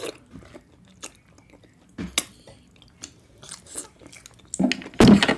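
Close-miked chewing of a mouthful of food: soft wet mouth clicks, a sharper click about two seconds in, and a louder chewing burst near the end.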